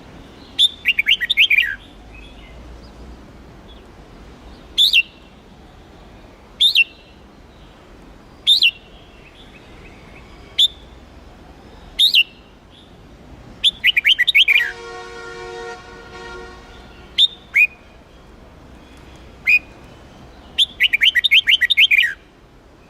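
Red-whiskered bulbul singing: short, rapid, loud chirping phrases near the start, midway and near the end, with single sharp calls every couple of seconds between them. Midway, a steady pitched tone sounds for about two seconds.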